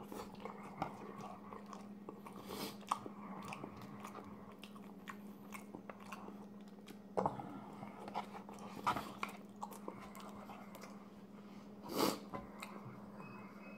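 Close-miked chewing of poutine: wet mouth sounds and small clicks, with a few louder bites. A brief rustle about twelve seconds in as a cloth towel wipes the mouth, over a steady low hum.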